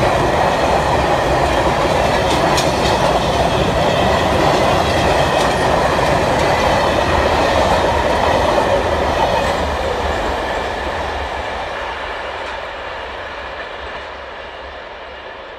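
Freight train rolling past: a steady rumble of wheels on rail with a few faint clacks. It fades away steadily from about ten seconds in as the train moves off.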